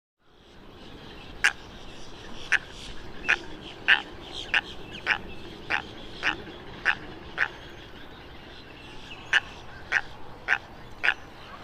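A bird giving short, sharp calls over and over, roughly one every half second, with a pause of nearly two seconds about three-quarters of the way through; steady background hiss underneath.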